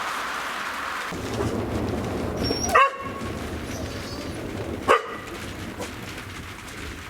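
Low rumble of thunder building about a second in, with a dog barking twice, about two seconds apart, over it.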